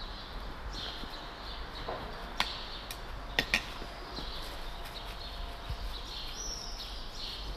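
Outdoor street ambience: small birds chirping over a steady low rumble. A few sharp taps stand out around the middle, two of them close together about three and a half seconds in.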